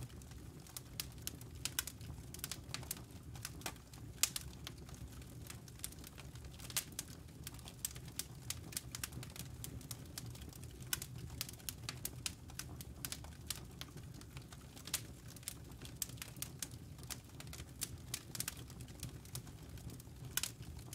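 Burning wood logs crackling in a fireplace: irregular sharp pops and snaps, several a second, over a low steady rumble.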